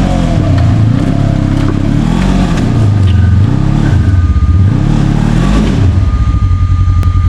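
Side-by-side UTV engine revving in repeated surges as the machine works over a rocky obstacle. Near the end it settles to a steadier rumble and a thin steady whine comes in.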